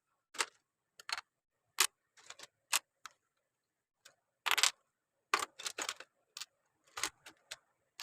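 Plastic Lego pieces clicking and being pressed together, in irregular sharp clicks with a few short rattling shuffles of parts, one longer shuffle about halfway through.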